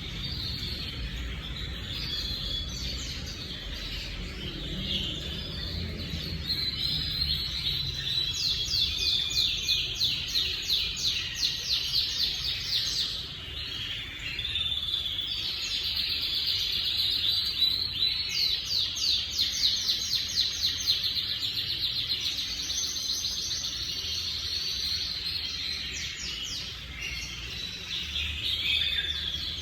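Spanish Timbrado canaries singing continuously, with long trills of fast, evenly repeated notes, two of the longest about a third and two thirds of the way through.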